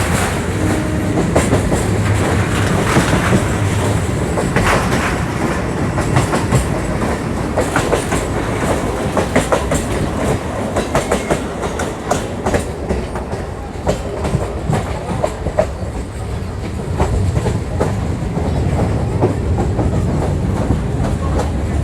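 Old electric multiple-unit (EMU) local train running, heard from on board: a steady rumble with wheels clacking irregularly over the rail joints, the clacks coming thickest through the middle.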